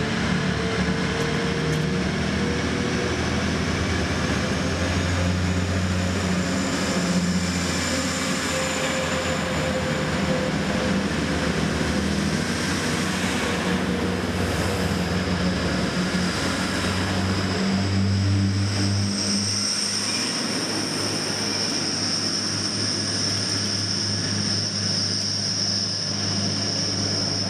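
A Hull Trains diesel train running along the platform, its engines humming with a note that rises slowly as it goes. About twenty seconds in the sound changes to a steady high whine over a low hum.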